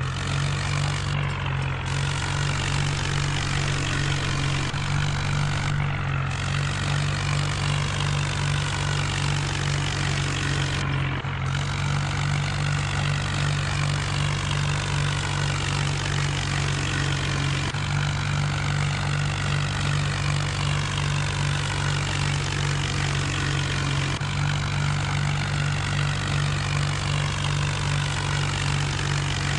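John Deere tractor's diesel engine running at a steady, unchanging speed.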